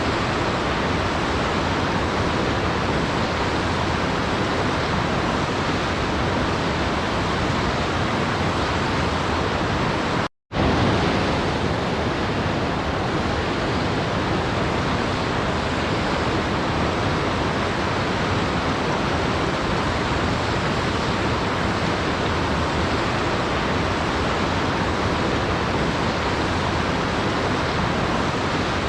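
Steady, even rushing of a waterfall, cutting out completely for a split second about ten seconds in before resuming unchanged.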